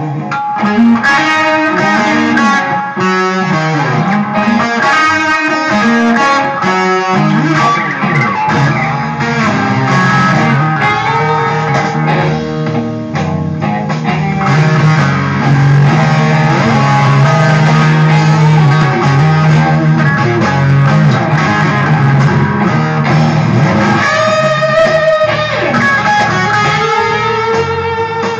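Electric guitar playing a slow, bluesy instrumental, with held low notes and bent notes.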